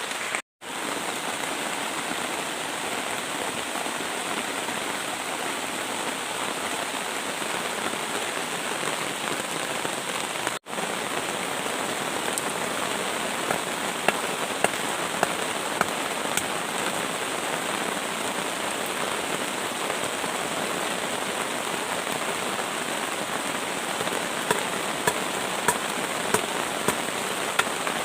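Heavy tropical rain pouring steadily. In the second half it is punctuated by scattered sharp taps, more of them near the end.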